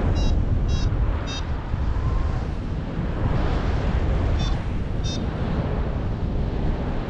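Strong wind buffeting the microphone in flight: a steady, loud rumble. Over it come short high beeps, three in the first second and a half and two more about four and a half to five seconds in, the kind a paragliding variometer gives while climbing.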